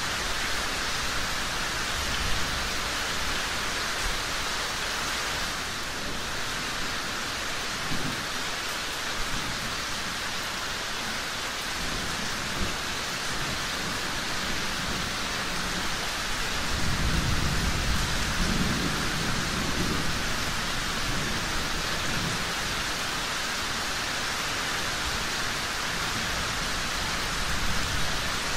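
Steady rain falling, with a low rumble of thunder rolling in a little past the middle and fading after a few seconds.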